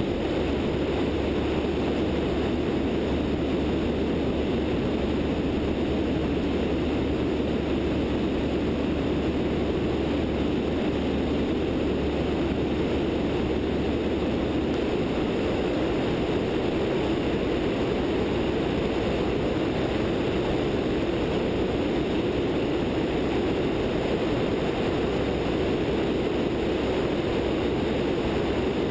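Light aircraft's 100-hp Continental O-200 engine and propeller running steadily in flight, a constant drone mixed with rushing air at a wingtip-mounted camera.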